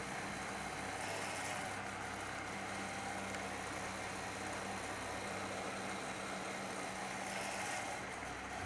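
Steady machine-like hum with an even hiss, unchanging throughout.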